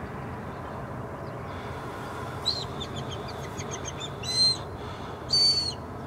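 Marsh bird calls over a steady low background rumble: a quick run of short high chirps about two and a half seconds in, then two louder, harsh calls about a second apart near the end.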